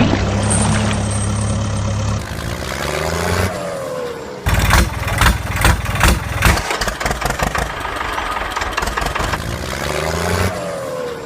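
Engine sound of a vehicle, running steadily and then winding down in falling pitch, followed by a run of rapid clicks and rattles, with another falling wind-down near the end.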